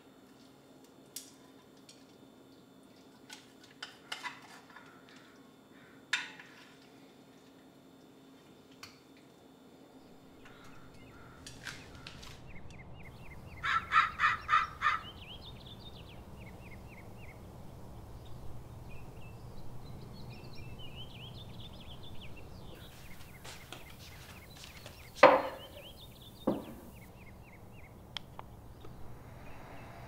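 Small clicks and taps of chopsticks and a pan against dishes in a kitchen, then outdoor bird calls: a quick run of about five loud calls, light chirping, and two more loud calls near the end.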